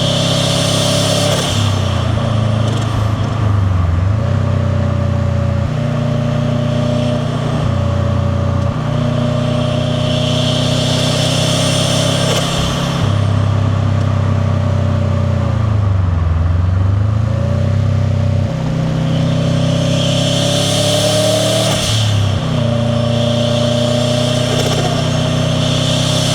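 The turbocharged flat-four of a 2001 JDM Subaru WRX STi running under way, with a VF48 turbo, catless downpipe and titanium catback. The engine's pitch dips and climbs back twice, about four and about sixteen seconds in. A hiss rises over the engine several times.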